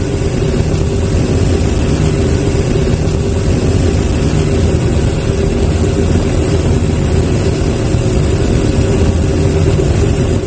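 Steady, loud engine drone: a low hum of several steady tones over a rushing noise, with no change through the stretch.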